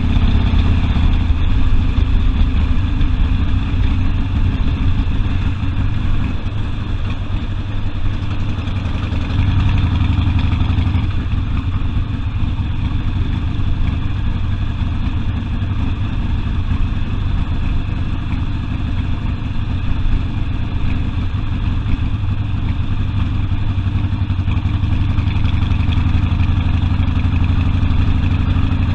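Harley-Davidson Sportster V-twin engine running steadily, its pitch shifting in the first couple of seconds and then holding fairly even.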